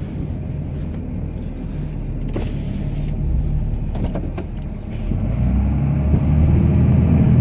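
Cummins inline-six turbodiesel of a Ram pickup running under load while plowing snow, heard from inside the cab; it grows louder about five seconds in, with a few faint knocks near the middle.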